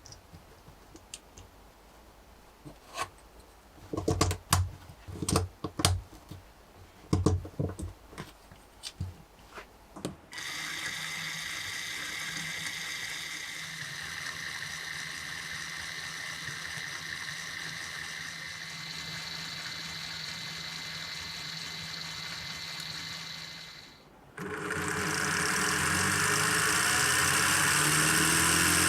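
Scattered clicks and knocks of Lego Technic parts being handled, then a Lego straight-twin engine model driven by a motor, whirring steadily. About two-thirds of the way through the whir cuts out for a moment and comes back louder.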